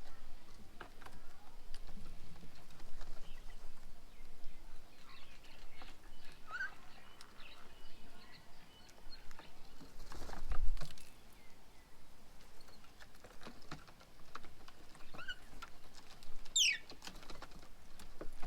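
Birds at a feeding table: a few short chirps and one fast falling call near the end, over scattered small clicks and taps, with a louder soft thump a little past halfway.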